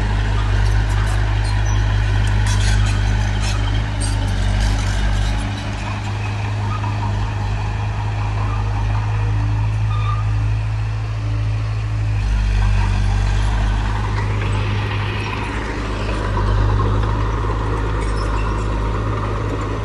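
Heavy diesel earthmoving machinery running under load, a steady low engine drone whose note shifts a couple of times, with metallic clanks and knocks in the first few seconds.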